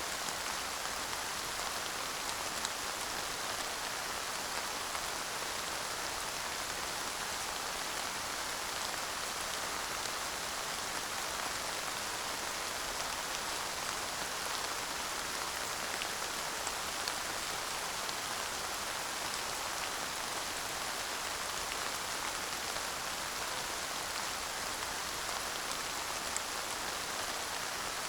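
Steady light rain falling, an even hiss of drops with the odd sharper tick of a single drop.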